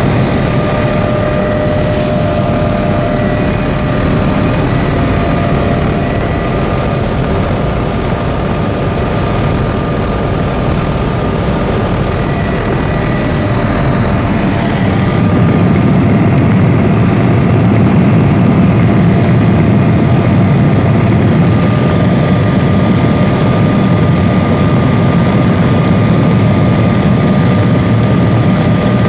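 Helicopter engine and rotor noise in flight, a steady drone with a faint whine, growing a little louder about halfway through.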